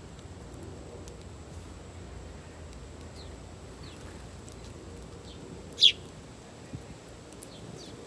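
Backyard birds chirping: a few faint, short, downward chirps, then one loud chirp sweeping down in pitch about six seconds in, over a low steady outdoor background.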